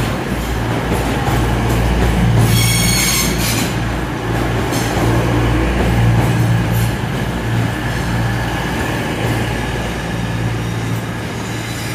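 An LNER Azuma multiple unit (Hitachi Class 800/801) moving slowly along the platform, its running gear giving a steady low hum. A brief high-pitched wheel squeal comes a couple of seconds in.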